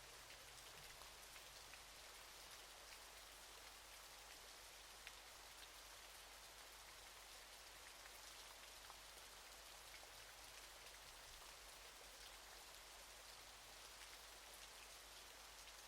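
Waterfall: a faint, steady hiss of falling water with a fine patter of scattered droplet ticks.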